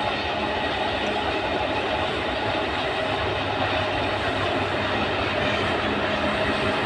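A train running along the track, giving a steady, continuous rumble of wheels and rail noise.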